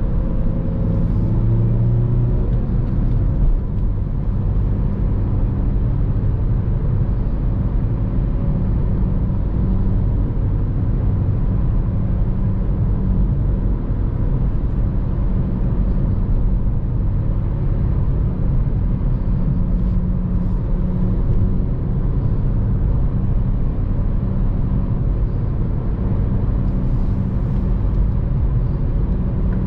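2014 Honda Civic Si's 2.4-litre four-cylinder engine and road noise while driving at a steady pace, with a brief change in engine pitch about two seconds in.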